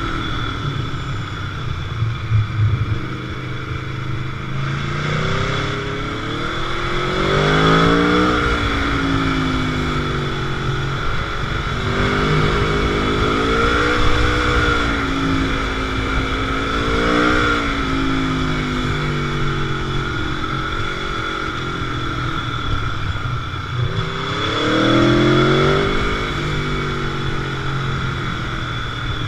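Sport motorcycle engine running on the road, its revs rising and falling repeatedly as the rider works the throttle, with sharp climbs under acceleration about seven seconds in and again near the end.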